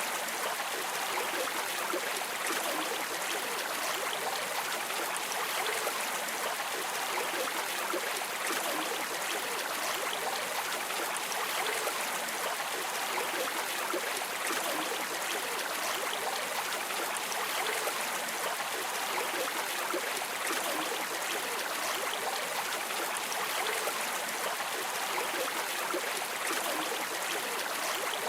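Steady rushing and trickling of a flowing river stream, an even wash of water noise without breaks.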